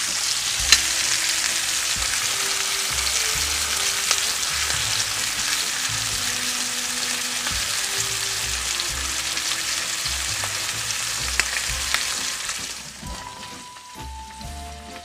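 Beef chuck roast sizzling in hot fat in a skillet as it sears, a steady hiss with scattered sharp crackles. The sizzle drops off sharply about 13 seconds in, leaving it much quieter.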